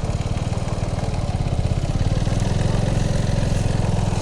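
Motorcycle engine running steadily at low speed with a fast, even throb, a little louder in the second half.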